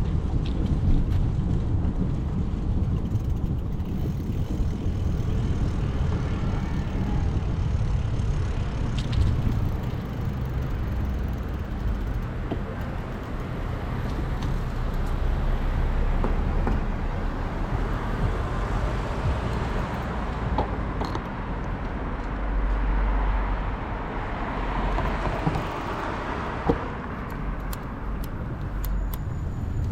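Traffic heard while cycling on a city street, with a steady low rumble of wind on the microphone. A vehicle passes, building up and then fading in the last third, and there is one sharp click near the end.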